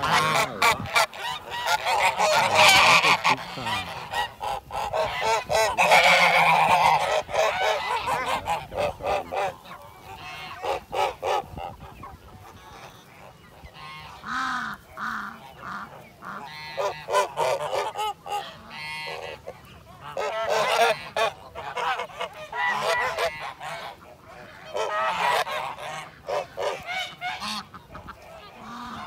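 Geese honking repeatedly, several calling over one another at first, then fewer and quieter calls.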